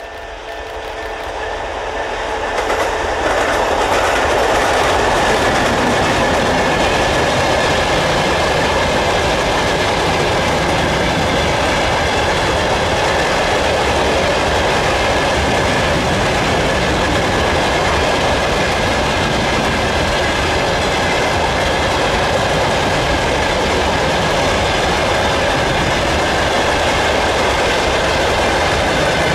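Freight train hauled by an ER20CF diesel locomotive passing close by. It grows louder over the first few seconds, then holds steady with the wheels clicking over the rail joints as the wagons roll past.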